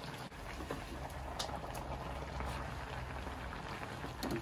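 Shredded cabbage and meat sizzling in a cast-iron pan while being stirred with a wooden spatula, with a few light scrapes and clicks. A low, steady rumble runs underneath.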